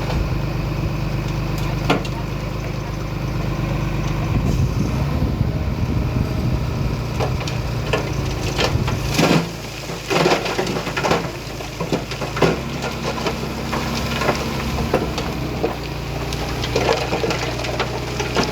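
Heavy earthmoving machinery's diesel engine running under load, its note changing a couple of times, with a burst of sharp cracks and crunches in the middle as soil and debris are pushed and broken.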